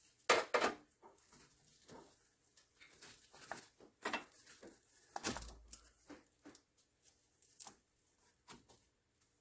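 Scattered clicks, taps and rustles of car parts and tools being handled during reassembly. The loudest knocks come about half a second in and about five seconds in, the second with a brief low thump.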